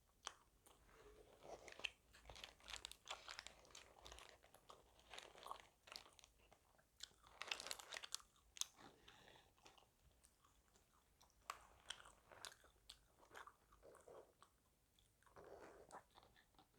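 A person biting and chewing crispy fried fast food, a KFC Tower Burger and fried chicken set, close to the microphone: quick crackly crunches and wet chewing clicks, with the densest crunching about halfway through.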